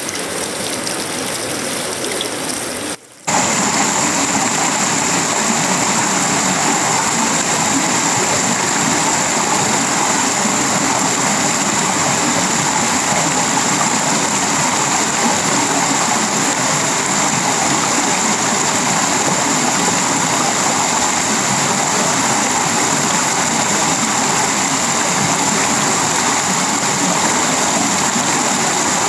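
Steady tropical rain falling on a sheet-metal roof, wood and leaves. About three seconds in, the sound cuts out for a moment and comes back louder.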